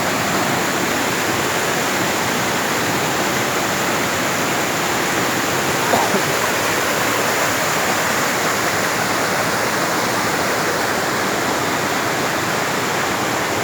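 Steady rush of a waterfall's falling water, even and unbroken, with one faint click about six seconds in.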